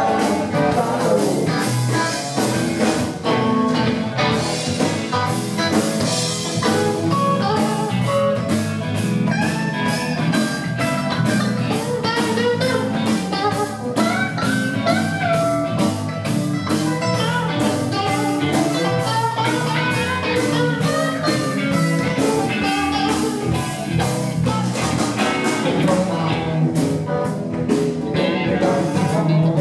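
Live band playing a blues-style song, led by guitar over a steady drum beat.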